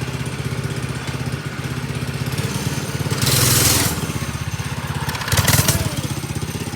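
FRP mini bike's 212cc single-cylinder four-stroke engine running steadily, with two short bursts of loud rushing noise about three and five and a half seconds in.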